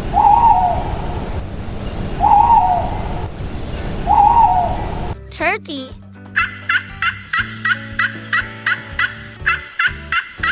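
An owl hooting three times over background noise, then, about six seconds in, a turkey gobbling in a fast, even series of calls, about four a second.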